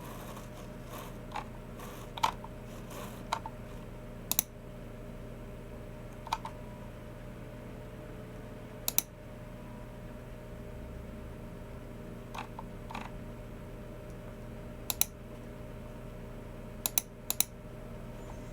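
Sparse, irregular clicks from a Logicool MX Keys Mini low-profile keyboard and a Logicool G304 mouse: a quick run of light keystrokes in the first few seconds, then single or paired clicks every few seconds. A steady low hum lies underneath.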